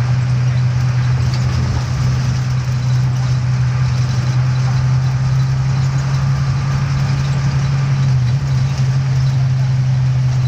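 A steady low engine drone over an even hiss.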